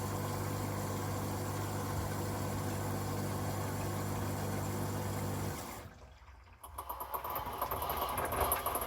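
Hoover washing machine: a pump hums steadily, then cuts off about five and a half seconds in. After a brief hush the drum starts turning with water sloshing and a high squeal from the drive belt, which is worn.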